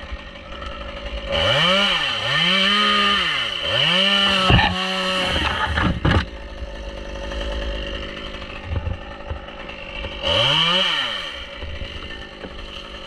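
Two-stroke chainsaw revved in quick bursts: three short revs rising and falling, then one held briefly before dropping back, running at idle in between, and a single further rev near the end.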